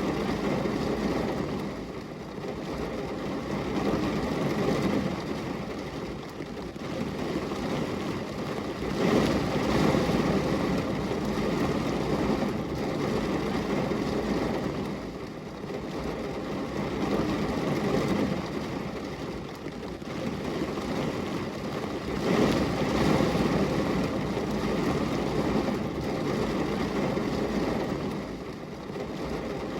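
Steady rain falling, a dense rushing noise that swells and eases every few seconds.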